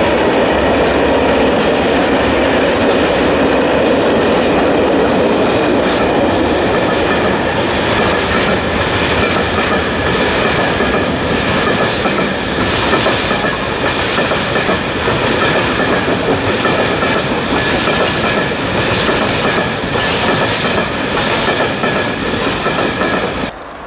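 Freight train of loaded hopper and open wagons rolling past close by, wheels clattering steadily over the rail joints with a thin high-pitched wheel squeal. The sound cuts off abruptly near the end.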